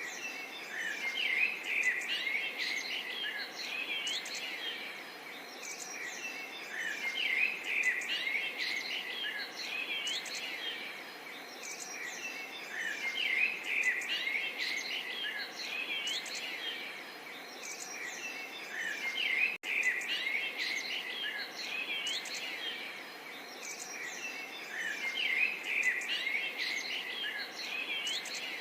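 A dense chorus of many small birds chirping and twittering over one another, swelling and easing every few seconds. There is a brief sudden dropout a little past two-thirds of the way through.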